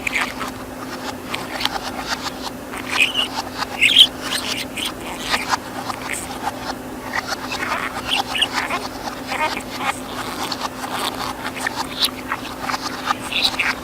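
Budgerigar chattering: a fast, busy run of soft clicks, short chirps and squeaks, with a faint steady hum underneath.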